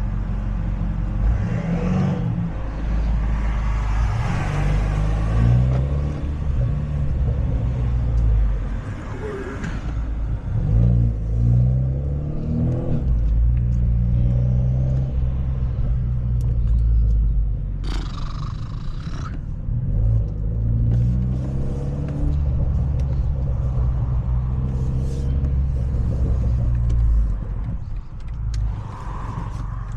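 Straight-piped, catless exhaust of a four-cylinder BMW 530 running as the car drives off, the engine note rising and falling again and again with throttle and gear changes.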